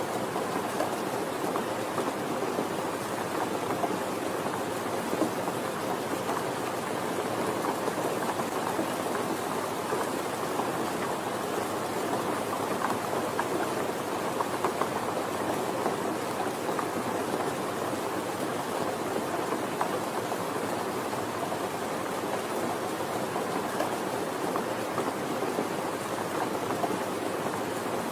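Steady, even rainfall, a dense patter of raindrops on a surface with no break or change.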